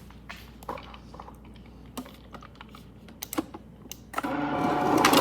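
Scattered light clicks and taps, then about four seconds in a refrigerator door ice dispenser starts: its motor runs with a steady buzz while ice cubes clatter down the chute.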